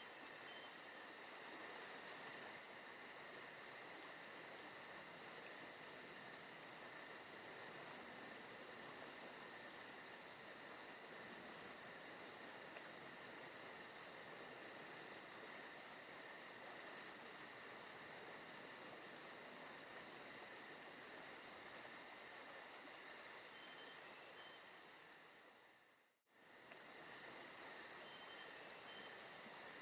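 Faint forest ambience: a steady chorus of crickets and other insects chirping, with a high shimmering trill. About 26 seconds in, the sound fades almost to nothing and returns within a second.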